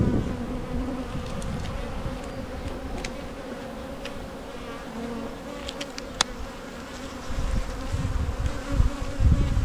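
Honey bees buzzing around an open hive during a frame inspection: a steady hum with a low tone and its overtone. A few faint clicks come about six seconds in, and low rumbles near the end.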